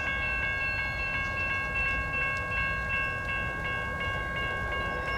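Railroad grade-crossing bell ringing at a steady pace, about three strikes a second, over the low rumble of a train.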